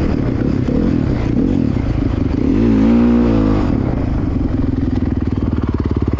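Dirt bike's single-cylinder engine running under throttle. It revs up and back down about three seconds in, then settles to a lower, steady pulsing note.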